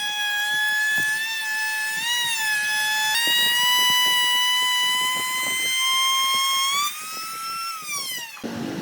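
Electric power tool motor running with a steady high whine, its pitch wavering briefly about two seconds in, with faint crackles underneath from about three seconds. Near the end the pitch climbs, then falls as the motor winds down, and the sound cuts off abruptly.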